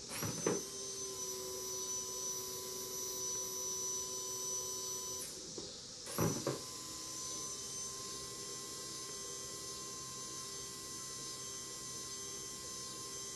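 Aftermarket replacement electric fuel pump for a 2008 Kawasaki Vulcan 1600, powered from a 12-volt DC source: a steady high whine that switches on, stops about five seconds in, and starts again a second later. The whine is the noise the owner is checking for.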